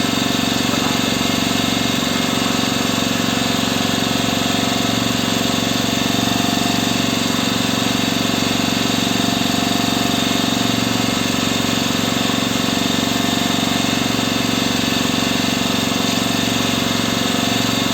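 A boat engine running steadily at a constant speed, its note unchanging throughout.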